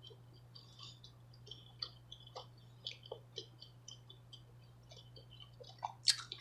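Close-up chewing of tender steak tips and loaded baked potato: soft, irregular wet mouth clicks and smacks, a little louder near the end.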